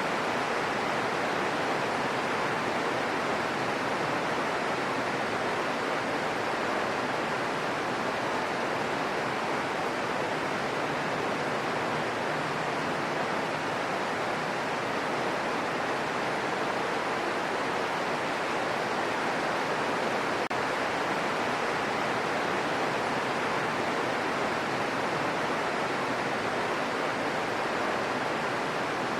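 Gentle rain falling steadily, an even hiss with no single drops or thunder standing out.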